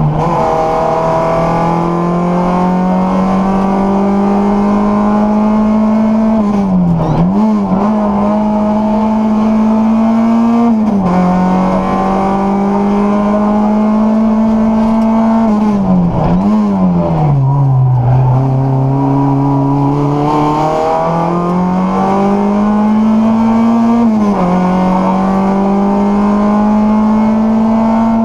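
Rally car's engine under hard driving, heard from inside the cockpit. It holds high revs, and its pitch drops sharply and climbs back several times through gear changes and lifts for bends.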